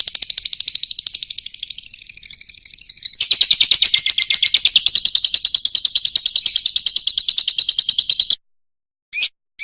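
Fischer's lovebird singing a fast, even, high-pitched chattering trill that runs on for several seconds, growing louder about three seconds in, then breaking off near the end into a few short separate calls.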